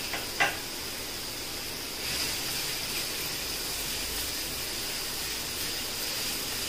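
Khoya sizzling in a hot iron kadhai on a low flame, a steady hiss that gets a little louder about two seconds in as it is stirred. Two light knocks come at the very start.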